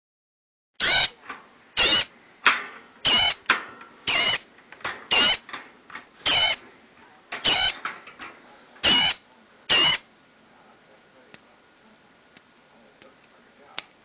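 A fledgling songbird giving high-pitched begging calls, about one a second, nine loud ones in all, stopping about ten seconds in: the hungry young bird gaping to be fed. A few faint clicks follow.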